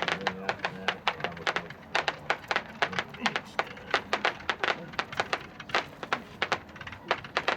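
Two 280-shot Bomb Shooter Roman candles firing at once, a fast, irregular string of sharp pops, several a second.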